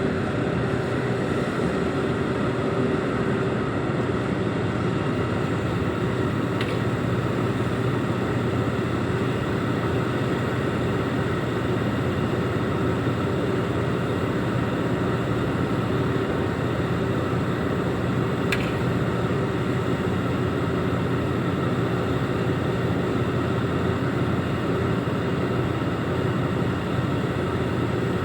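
Heavy diesel engine running steadily at an even speed, with two faint short ticks.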